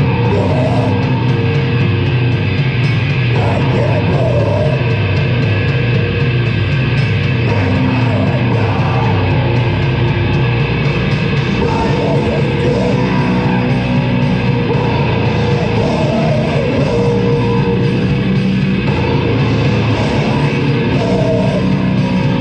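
A heavy metal band playing live, guitar-driven, loud and dense without a break.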